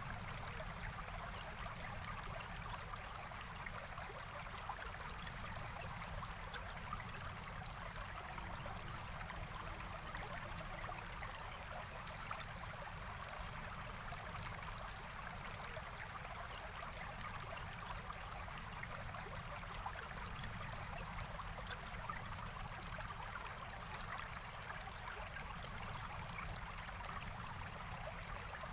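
Forest stream flowing steadily, an even, unbroken rush of water.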